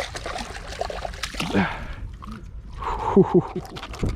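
Water splashing and sloshing for about two seconds, then a few short voice sounds about three seconds in.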